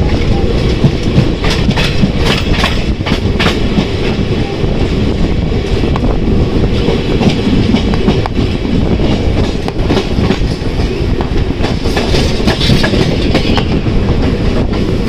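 A passenger train running along the track, heard from on board: a steady, loud rumble of wheels on rail with scattered clicks and clacks from the rail joints.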